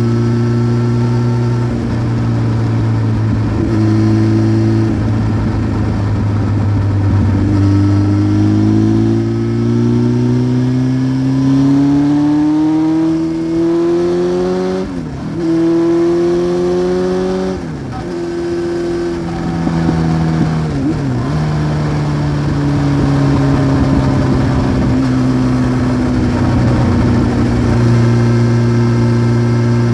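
1993 Honda CBR900RR Fireblade's inline-four engine, through a Remus exhaust, pulling under acceleration with a climbing pitch. Its pitch drops sharply twice, about halfway through and a few seconds later, as it shifts up. It then runs at a steady cruise.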